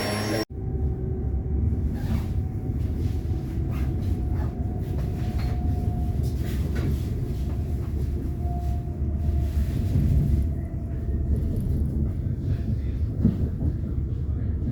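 Train running on the rails with a steady low rumble and scattered metallic clicks and knocks.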